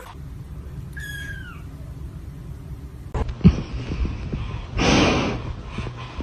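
A cat gives one short, high meow that falls in pitch, about a second in. Later a low steady hum runs, with a brief rush of noise about five seconds in.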